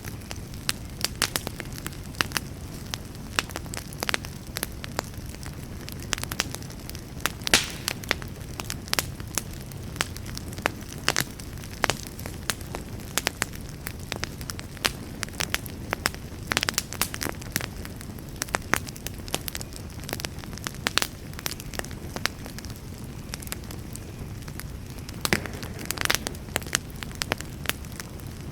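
Wood fire burning in a fireplace with constant irregular crackling and popping over a low steady rumble, a few pops louder than the rest, at about 7.5 and 26 seconds.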